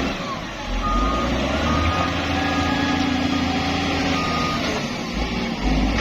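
Heavy vehicle's reversing alarm sounding a few slow beeps over the steady rumble of a diesel engine.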